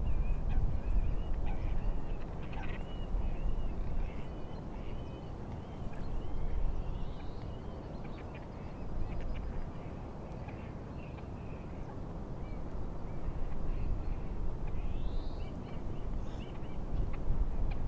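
Wind and lake waves making a low, uneven rumble. Over it, birds call in quick runs of short notes, with a few rising calls about six and a half seconds in and again near the end.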